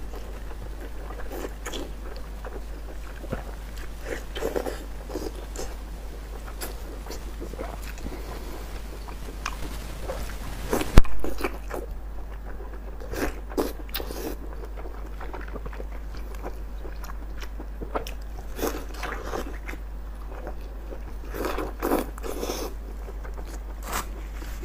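Close-up eating sounds of a person biting and chewing fatty intestine in chili sauce: irregular smacks and mouth clicks, with one sharp click about eleven seconds in.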